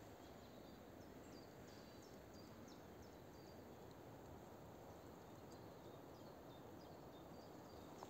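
Near silence with a low steady hiss, through which a small bird gives faint, high, short chirps, repeated every half second or so.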